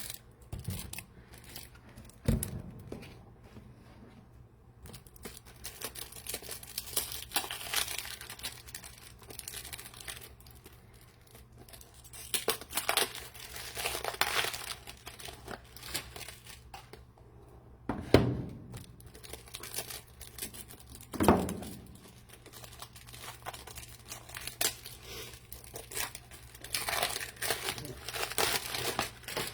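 Plastic wrapping crinkling and tearing as it is handled, in irregular stretches, with a few sharp thuds as things are set down.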